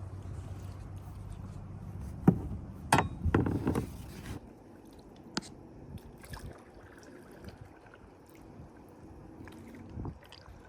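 A small boat's electric trolling motor humming steadily, then stopping about four seconds in. Just before it stops, a cluster of loud knocks and scrapes on the small aluminium-style hull. After that only faint water trickling and a few light ticks remain.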